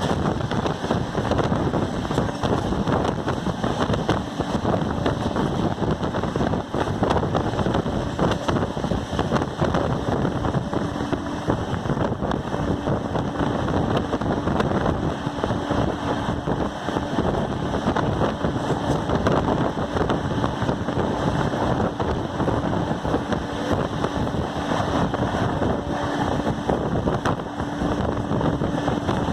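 Express train running at about 130 km/h, heard from on board: a steady rush of wheels on rails and wind, dotted with many small track clicks. A faint steady hum comes and goes through the middle stretch.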